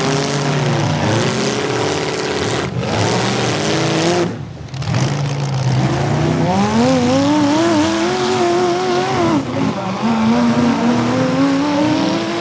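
Demolition derby car engines revving hard, their pitch climbing and falling again and again, with a brief drop in level about four and a half seconds in.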